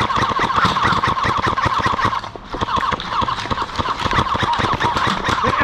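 Airsoft guns firing on full auto: a fast mechanical rattle of shots, many per second, with a short break about two seconds in.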